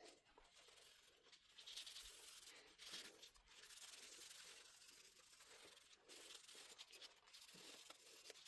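Faint rubbing and scratching of wood stain being worked onto pallet-wood coasters, in irregular strokes with short pauses.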